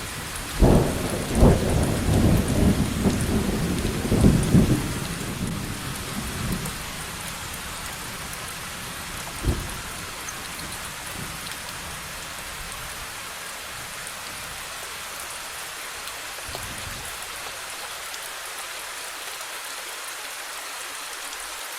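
Steady rain with thunder: a run of loud cracks and rumbling over the first six seconds, a single sharp crack about nine and a half seconds in, then rain alone.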